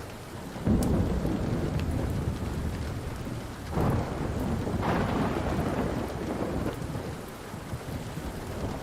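Rolling thunder over steady rain: a rumble breaks about a second in, swells again around four seconds and slowly fades. A few sharp crackles from a wood fire sound now and then.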